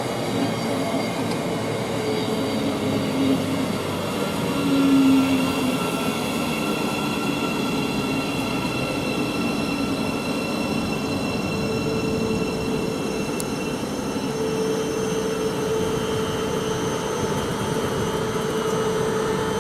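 Thameslink Class 700 electric multiple unit at the platform, a steady rail running noise with the electric whine of its traction gear, held tones that change pitch a few times.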